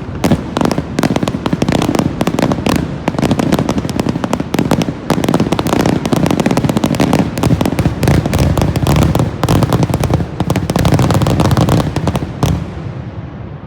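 Fireworks finale: a dense, rapid barrage of aerial shell bursts and crackling bangs that stops about a second before the end.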